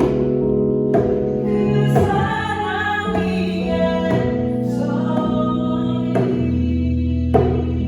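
Worship song: singing over held accompaniment chords, with a djembe struck about once a second.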